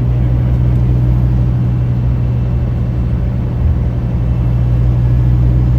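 Scania K310UB bus's five-cylinder diesel engine running steadily with a low, even drone while the bus is under way, heard from on board.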